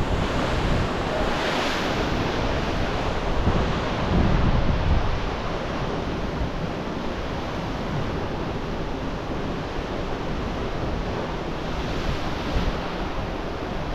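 Steady rushing wind and sea noise, with wind buffeting the microphone in a low rumble; it swells in gusts about two and four seconds in.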